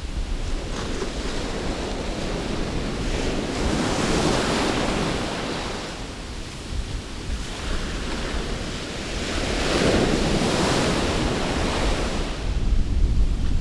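Sea surf washing onto a sandy beach, swelling twice, about four and ten seconds in, under strong wind buffeting the microphone with a low rumble.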